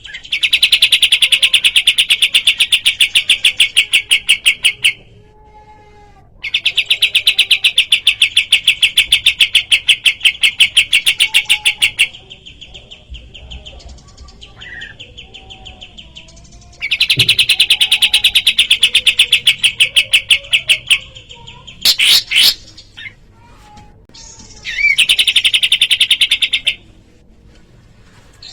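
Kapas tembak song: long trills of very fast repeated notes, four bouts of a few seconds each with short pauses between.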